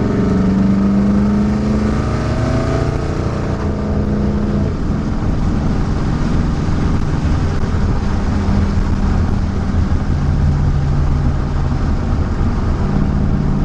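1969 Mustang Fastback's 351 Cleveland Cobra Jet V8, with custom headers and MagnaFlow-type exhaust, heard from inside the cabin while driving. The revs climb over the first three seconds or so, then the engine settles into a steady cruise.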